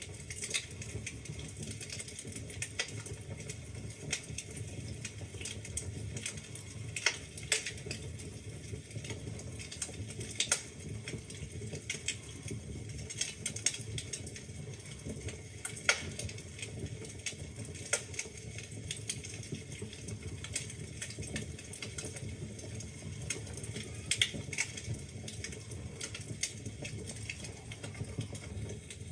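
Wood fire burning in a fireplace: a steady low rumble with irregular sharp crackles and pops from the burning logs, a few louder snaps among them.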